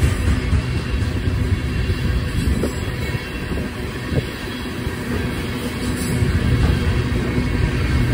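Ballast hopper cars of a passing freight train rolling by, a steady low rumble of steel wheels on rail, with a couple of brief faint wheel squeals.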